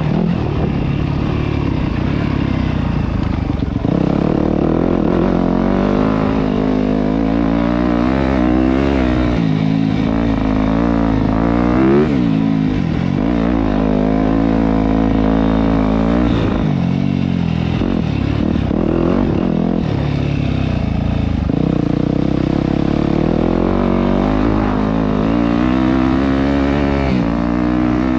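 Dirt bike engine riding hard, its pitch climbing and dropping again and again as it revs up through the gears and eases off.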